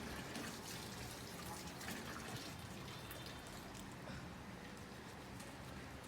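Steady trickle of running water, with faint small clicks.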